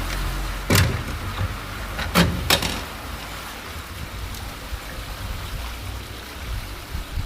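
Rainwater rushing steadily into a storm drain as it is being cleared, with three sharp knocks: one about a second in, then two close together around two seconds in.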